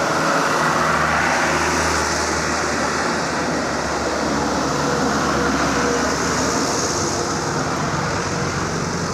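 Truck engine running, with steady road and tyre noise.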